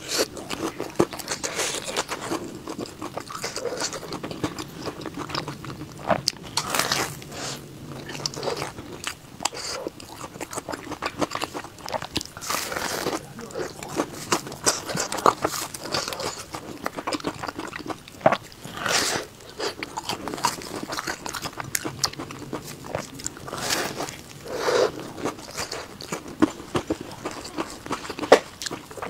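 Close-miked crunching bites and chewing of a large sesame-crusted pumpkin cake with a crisp top. Loud crunchy bites come every few seconds, with softer crackly chewing between.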